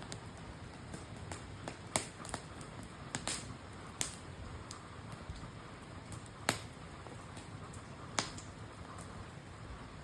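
Wood campfire crackling: sharp, irregular pops and snaps a second or two apart over a steady low hiss.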